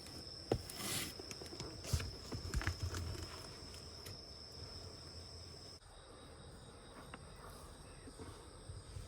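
Crickets trilling steadily outdoors, a thin high-pitched chorus. A few soft knocks and rustles come in the first three seconds, and about six seconds in one of the trills cuts off while a higher one carries on.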